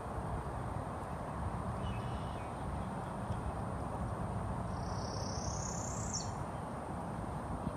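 Wild bird calling: a few faint chirps about two seconds in, then one clear, high, slightly rising whistle about five seconds in that lasts over a second, over a steady low noise.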